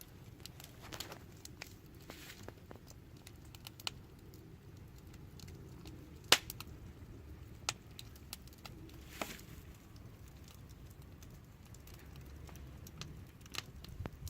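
Wood fire burning and crackling: irregular sharp pops and snaps over a low steady rush of flame, with one louder pop about six seconds in.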